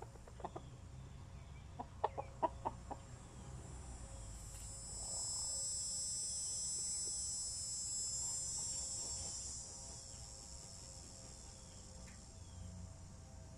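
Marans hens clucking while dust bathing, with a quick run of about six short clucks around two seconds in. From about five to ten seconds, a steady high buzz like insects is the loudest sound.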